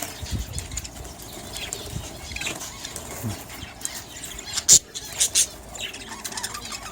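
Budgerigars chattering with many short chirps, and a sharp knock about two-thirds of the way through, followed by a couple of smaller ones.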